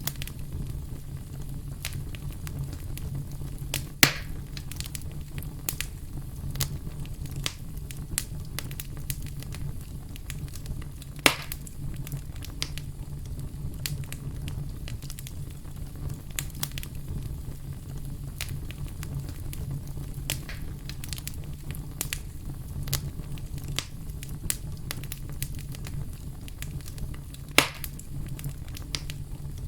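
Wood fire burning in a fireplace: a steady low rumble of flames with frequent small crackles and three louder pops from the burning logs, about four, eleven and twenty-seven seconds in.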